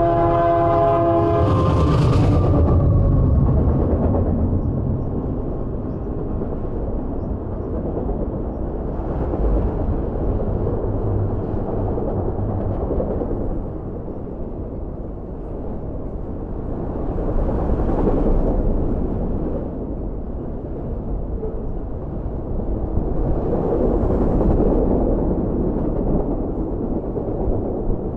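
GE AC4400CW diesel locomotive's horn sounding its chord, cutting off about a second and a half in. The locomotive then passes close with a brief loud burst of engine and wheel noise. After that comes the steady rumble and clatter of loaded autorack cars rolling by, swelling and easing every several seconds.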